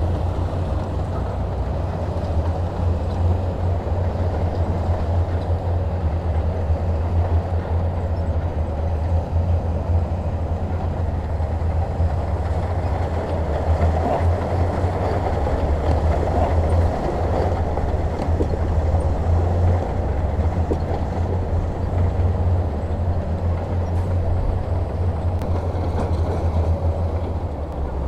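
Heavy diesel engine running steadily with a deep, continuous rumble.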